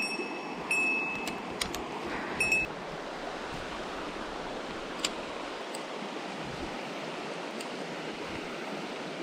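Mountain stream flowing steadily. In the first few seconds there are three short, steady high-pitched tones and a few sharp clicks.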